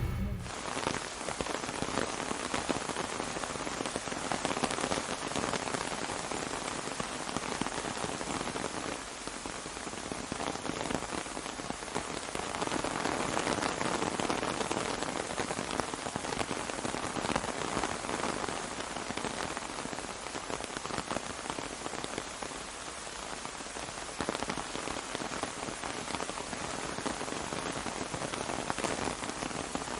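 Steady rain falling on an umbrella, a dense patter of many drops that swells and eases a little in strength.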